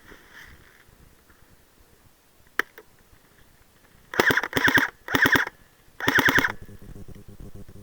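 Airsoft replica firing four short full-auto bursts in quick succession, each a rapid rattle of shots, after a single sharp click about two and a half seconds in.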